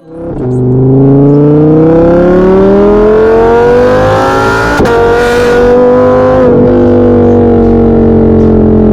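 Audi R8's V10 engine accelerating hard: its pitch climbs steadily for about four seconds, drops sharply with a crack at an upshift, holds, drops again at a second shift about two seconds later, then eases gently lower.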